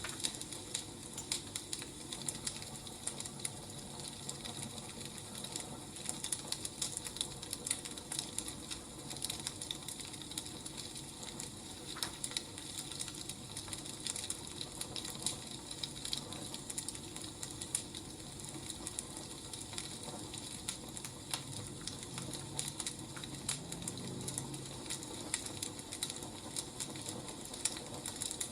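Wood fire crackling, with steady irregular small pops and snaps over a soft hiss.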